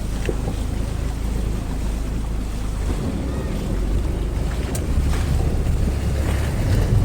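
Steady wind buffeting the microphone over a continuous rush of moving water, heaviest in the low rumble.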